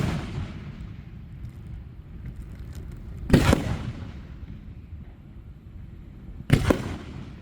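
Aerial fireworks shells bursting: a loud bang about three and a half seconds in and two bangs in quick succession near the end, each followed by a rumbling echo that dies away.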